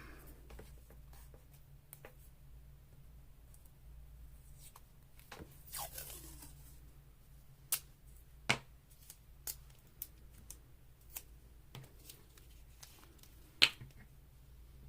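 Paper being handled on a craft table: a short rustle of paper about six seconds in, then scattered light taps and clicks, the sharpest near the end.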